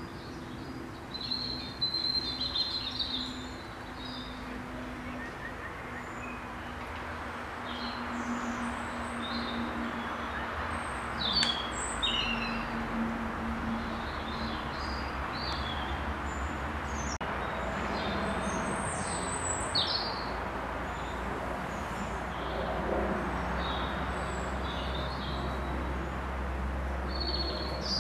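Birds chirping, with short high calls scattered throughout, over a steady low background rumble that grows louder about halfway through.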